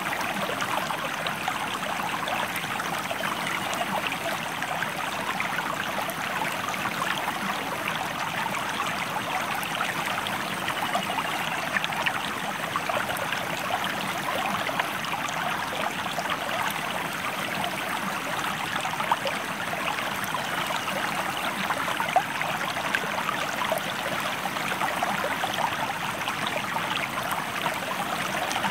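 A river or stream flowing steadily: an unbroken rush of running water with fine splashing and gurgling.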